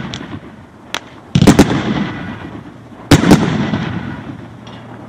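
GM106 Mount Rushmore 500-gram firework cakes firing: a sharp report about a second in, then two loud booming breaks, each a quick pair of bangs, at about one and a half and three seconds, each fading away slowly.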